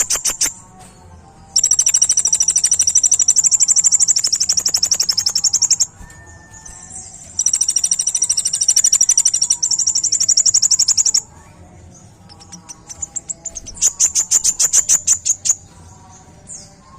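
Kolibri ninja, a sunbird, singing its rapid-fire 'tembakan' song: long, very fast high-pitched trills of rapidly repeated notes, three runs of several seconds each with short pauses between.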